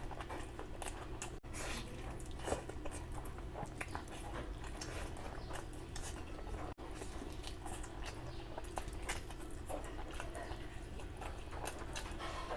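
Close-up eating sounds of a person chewing and biting into curry, rice and meat, with many small wet clicks and crackles at an irregular pace over a steady low hum.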